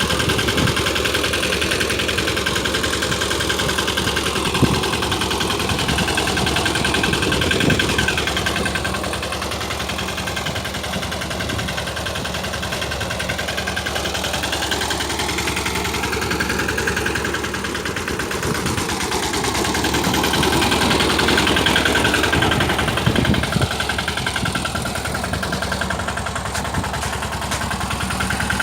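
Mini tractor's engine running steadily, its loudness easing off for a while partway through and picking up again later.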